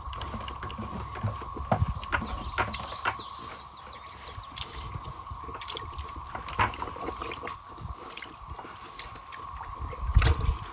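Feeder pigs eating at their feed, with irregular chomping, snuffling and clicks of mouths and snouts against the food. A louder low knock comes near the end.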